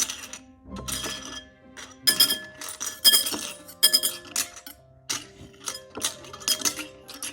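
Small plastic Lego pieces clinking and rattling in a bowl as they are stirred, in repeated short bursts, with background music underneath.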